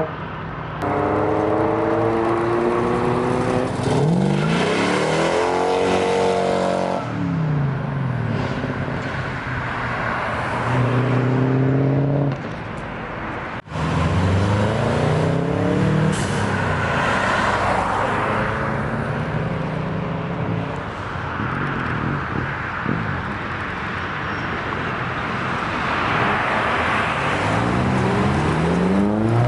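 Several vehicle engines accelerating away and passing one after another, the revs climbing and dropping again with each gear change. Brief break about 14 seconds in.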